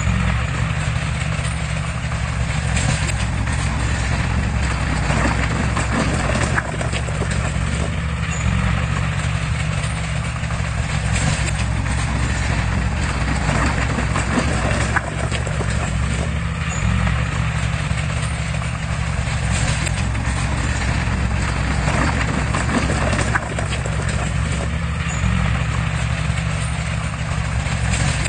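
Heavy diesel machinery, a bulldozer, running steadily under load with a continuous rattling clatter.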